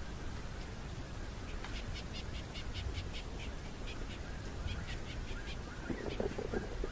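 A bird chirping in two quick runs of short, high notes, about five a second, over a steady low rumble. A few lower calls come near the end.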